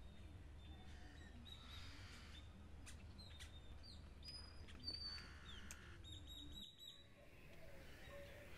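Faint, scattered bird chirps and short whistles over a low hum that drops out about two-thirds of the way through.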